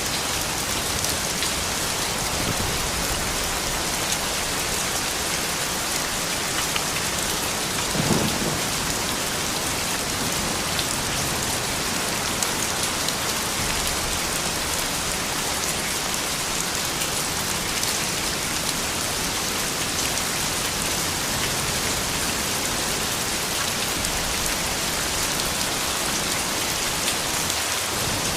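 Steady rain falling, an even hiss with scattered drop ticks. There is one brief, louder low thud about eight seconds in.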